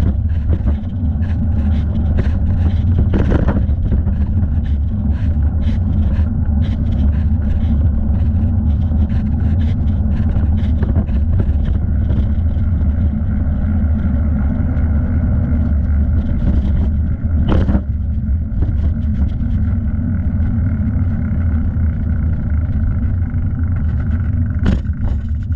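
Bicycle riding along at speed: a steady, loud rumble of wind buffeting the body-mounted microphone, with tyre and road noise and a few sharp knocks from the bike, about three seconds in, past halfway, and near the end.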